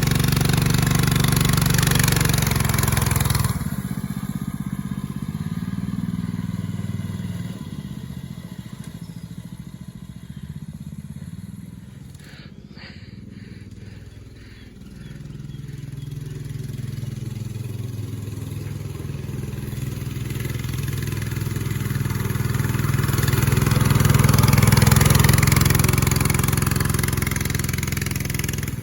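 Baja Warrior mini bike's small engine running under throttle as the bike rides off. It is loud at first, fades as it moves away to a low point about 13 seconds in, then swells back as it returns, loudest about 25 seconds in, and eases off near the end.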